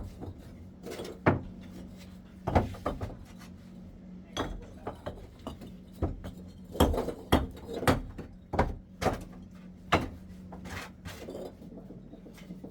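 Bricks being picked up and set down, knocking and clinking against each other in about a dozen hard, irregular strikes.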